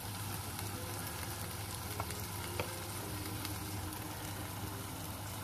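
Stir-fry of sliced chilli, garlic and ginger sizzling steadily in a pan, stirred, with a utensil clicking against the pan twice about two seconds in.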